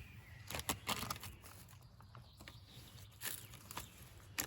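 A few scattered short crackles and clicks from a dinner wrap being handled and eaten, over a faint steady background.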